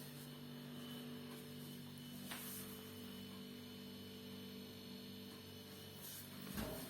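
Refrigerator running with a steady low hum made of several tones. There is a faint tick about a third of the way in and a soft low thump near the end.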